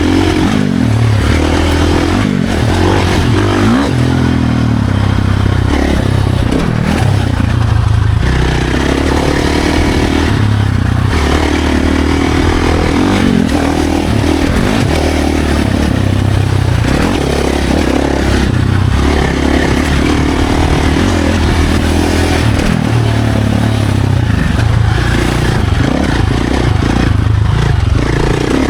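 Dirt bike engine being ridden hard on a trail, revving up and falling back over and over, its pitch climbing and dropping every few seconds.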